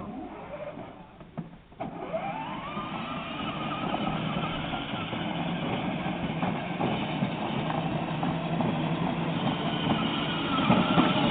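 A vehicle's motor starts up about two seconds in. Its pitch rises as it speeds up, and it then runs steadily and loudly.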